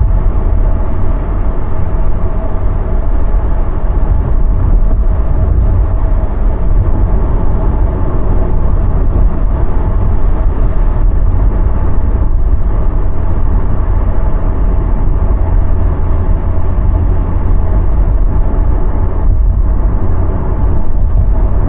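Steady road rumble of a moving car heard from inside the cabin, heavy in the low end, with no breaks.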